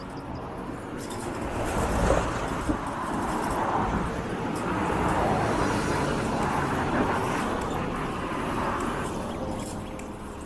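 Road traffic: motor vehicles passing, the noise swelling and fading over several seconds.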